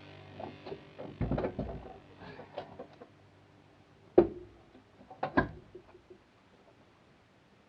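Knocks and clunks of a seat being set onto its floor mounts in a Ford Econoline van cab: a cluster of clunks near the start, a sharp knock about four seconds in, and two more about a second later.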